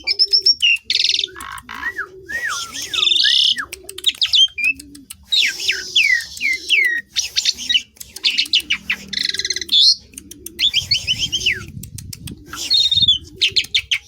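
Asian pied starling (jalak suren) singing a fast, varied song of whistles, sweeping glides and harsh rattles, with a low note repeating about twice a second underneath.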